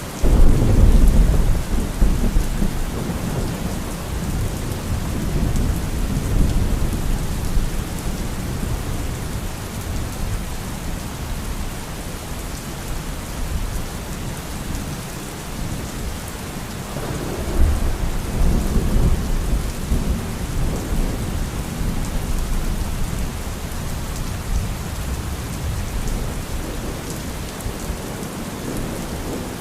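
Thunderstorm: steady rain with a loud, low rumble of thunder that breaks right at the start and rolls off over several seconds, and a second rumble just past the middle.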